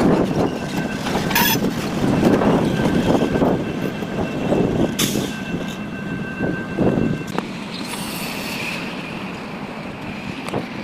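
A train running, with a continuous rumble and faint high steady tones through the first half or so.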